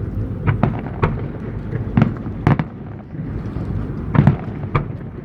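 Fireworks display: shells bursting in an irregular series of sharp bangs, about seven in five seconds, over a continuous low rumble.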